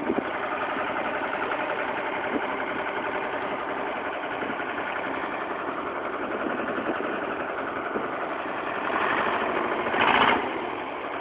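Oliver 1755 tractor engine idling steadily just after a cold start, having sat for two weeks. Near the end it briefly gets louder twice, the second time sharply, as the engine is revved for a moment.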